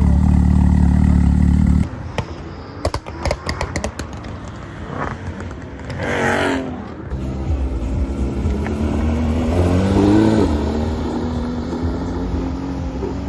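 Porsche sports car engines across a cut between clips. A steady, loud low engine drone stops abruptly, followed by scattered clicks, a brief burst of sound, then an engine note that rises and holds steady.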